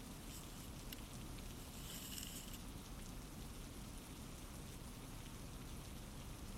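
Steady, faint rain ambience with scattered light drop ticks, and a brief higher rustle about two seconds in.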